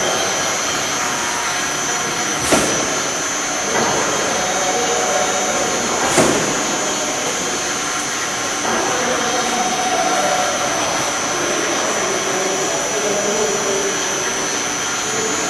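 MEP Tiger 370 CNC sawing machine running, a steady high whine over loud machine noise, with a sharp click about two and a half seconds in and another about six seconds in. The whine stops right at the end.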